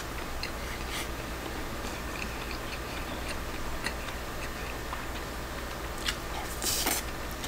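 A man chewing a mouthful of shirasu (boiled whitebait) rice close to the microphone, with soft wet mouth clicks, as a wooden spoon scoops from a ceramic bowl. A short, louder noisy sound comes near the end as the next spoonful goes in.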